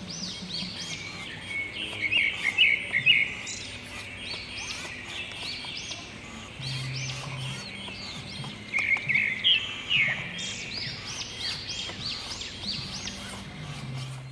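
Birds chirping and calling over and over, with loud clusters of quick chirps about two seconds in and again around nine seconds. A faint low hum comes and goes underneath.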